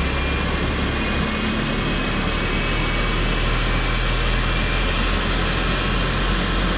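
Boeing 777F's right-hand GE90 turbofan spooling up on its starter during engine start, before ignition. It is heard from the flight deck as a steady rushing noise with a low hum and faint whining tones that slowly rise in pitch.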